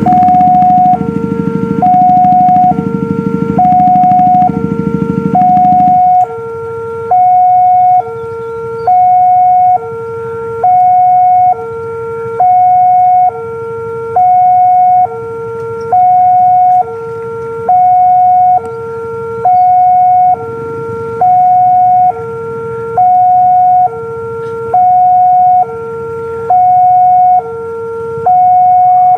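Railway level-crossing warning alarm sounding a loud electronic two-tone signal, a higher and a lower tone alternating about once a second each: the warning that a train is approaching the crossing. A low rumble underneath cuts off about six seconds in.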